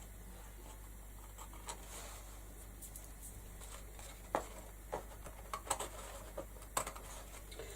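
Light clicks and taps of hands working with card and craft tools on a tabletop: a few sharp clicks from about halfway through, over a faint steady low hum.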